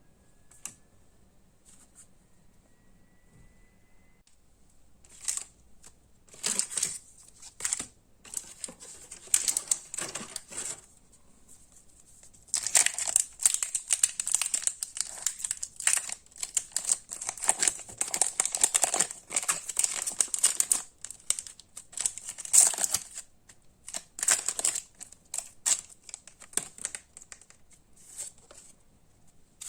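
Plastic wrapping on Pokémon card packs crinkling and tearing as it is opened and handled. It comes in irregular spells of rustling starting about five seconds in, and is densest for about ten seconds in the middle.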